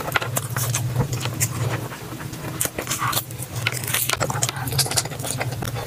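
Close-up eating sounds: chewing with many short mouth clicks, over a steady low hum.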